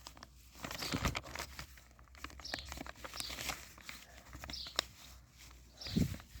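A sheet of A4 paper being folded and creased by hand, rustling and crinkling, with a couple of dull handling knocks about a second in and near the end.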